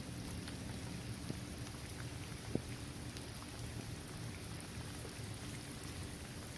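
Steady rain falling on a paved basketball court, trees and grass, a continuous patter with scattered individual drop ticks. One louder drip lands about two and a half seconds in.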